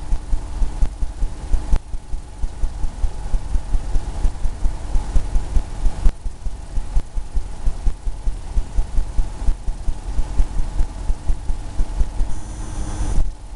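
Oil paintbrush tapped rapidly against the canvas, dabbing in paint: a fast, even run of dull low thumps, several a second. Near the end the thumps give way briefly to a steadier brushing sound.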